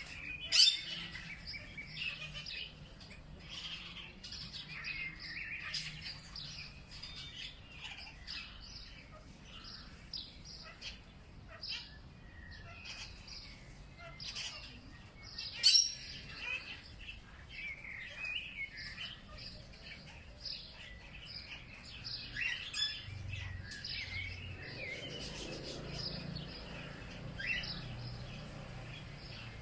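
Several birds chirping and calling at once, mostly short high chirps and trills, with two sharp louder calls, one near the start and one about halfway. A faint low hum runs beneath.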